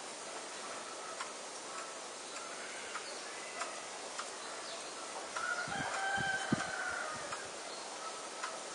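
A distant bird call about a second and a half long, starting about halfway through, with a few low thumps under it, over a steady outdoor hiss and scattered faint ticks.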